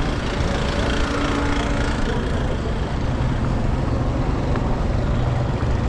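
Honda XR 250 Tornado's single-cylinder four-stroke engine running steadily, with road and wind noise around it.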